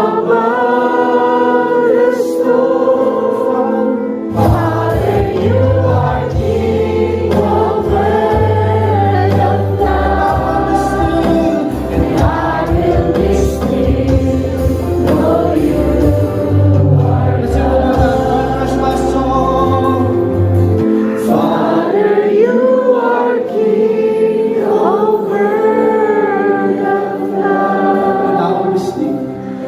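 A group of voices singing a slow worship song in harmony. A deep bass part comes in about four seconds in and drops out around twenty seconds in.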